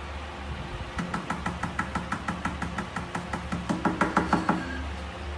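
Rapid, regular tapping or knocking, about seven knocks a second, starting about a second in and loudest just past the middle, over a low steady hum.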